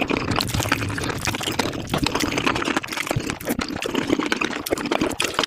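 Eating sounds of Korean spicy tofu soup sped up about five times: rapid, wet slurping of the soup broken by many quick sharp clicks.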